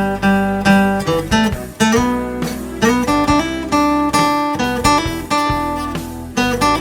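Acoustic guitar played solo, with no singing: a slow picked melody over chords, roughly two notes a second, each plucked and left to ring.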